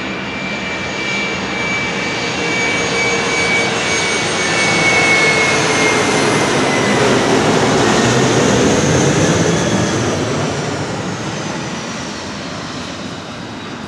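Fokker 70's twin Rolls-Royce Tay turbofans whining as the jet passes on its landing approach. The sound swells to a peak about halfway through and then fades, and its whine tones slide down in pitch as it goes by.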